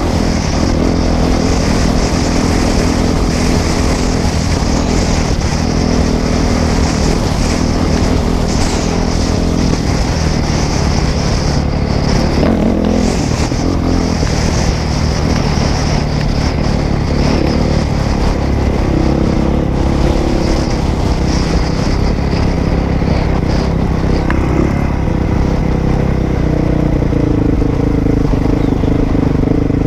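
Dirt bike engine running while the bike is ridden over rough trail, its pitch rising and falling with the throttle.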